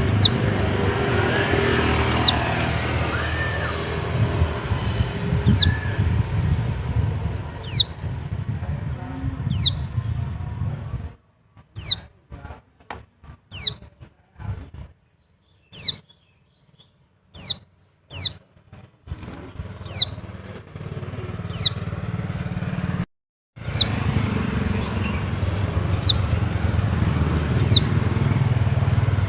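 Pleci (white-eye, Zosterops) calling: short, high notes that slide downward, repeated about every second or two. Under them runs a steady low hum, which drops away for about twelve seconds midway and then returns.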